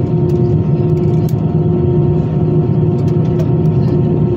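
Steady drone inside an Airbus A320-214 cabin before takeoff: a low rumble under a constant hum tone, with a few faint clicks and rattles.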